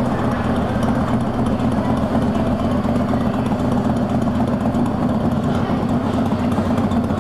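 A steady, low motorbike engine idling, the engine sound played by the ride vehicle.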